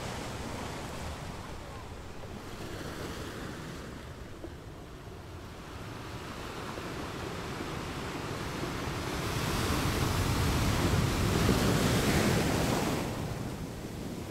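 Sea waves washing onto a shore: the surf ebbs, then a larger wave swells and breaks about two-thirds of the way in before it draws back.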